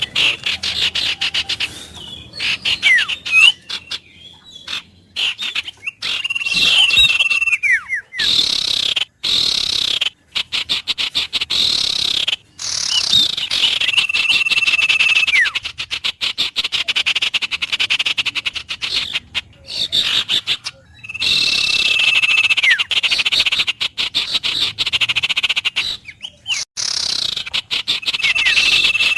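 Wild birds calling: long, very fast high trills, and about every seven seconds a held whistled note that drops away in a falling glide.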